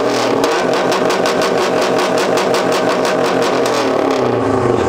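2008 Subaru WRX's turbocharged flat-four, through a straight-pipe exhaust, held at high revs with a rapid even pulsing. The revs fall away near the end.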